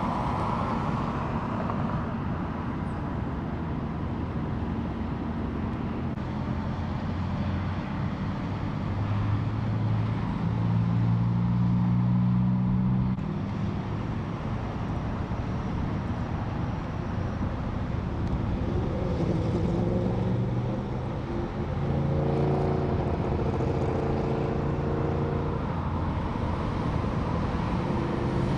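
Steady traffic and vehicle engine noise. The low engine tones swell and fade twice: once about a third of the way in, and again in the last third.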